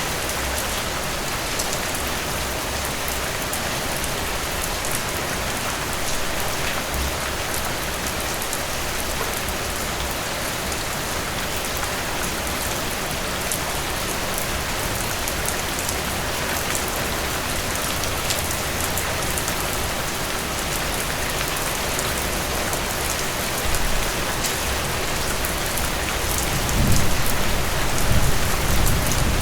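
Steady rain falling on a hard surface, a dense hiss with many individual drops ticking through it. A low rumble swells up near the end.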